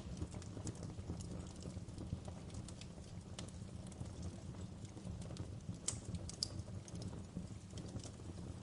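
Wood fire in a fireplace crackling, with irregular small pops over a steady low rumble of burning, and a few sharper pops about six seconds in.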